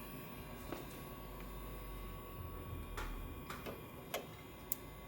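A handful of short, sharp plastic clicks and taps over a steady low hum, as the small green discs on an Inotec Scamax 6x1 document scanner are moved to their number 2 position.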